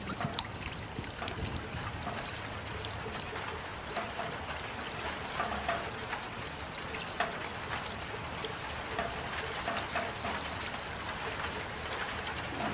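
Steady rain falling, with many separate drops ticking through the even hiss.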